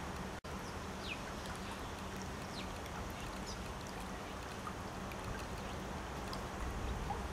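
Steady outdoor background noise, a hiss with a low hum, with a few faint short high chirps that fall in pitch. The sound cuts out briefly about half a second in.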